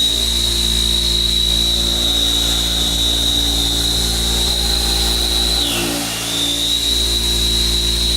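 CNC machine tool running under cut: a steady high whine over a low hum. The whine dips in pitch about five and a half seconds in and climbs back up.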